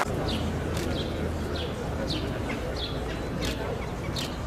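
A small bird chirping over and over, short high chirps that fall in pitch, about one every two-thirds of a second, over a low steady rumble.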